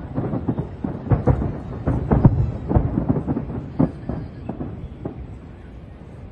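Aerial fireworks bursting in quick succession, each bang rolling on into a low rumble like thunder. The bangs are densest and loudest around two seconds in and thin out near the end.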